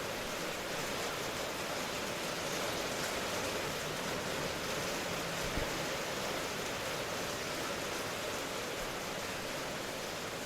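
Steady rain falling, an even hiss with no individual drops standing out. A brief low thump comes about halfway through.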